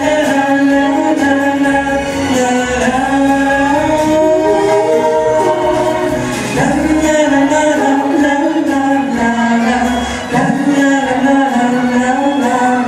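A slow sung ballad over a musical backing, with long held vocal notes that glide between pitches.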